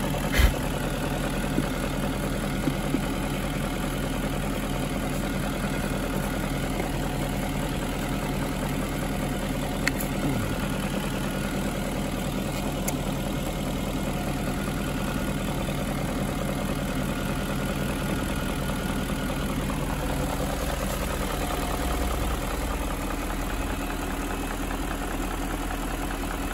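BMW E38 740i's 4.4-litre V8 idling steadily while it warms up from a cold start, with one sharp knock about half a second in.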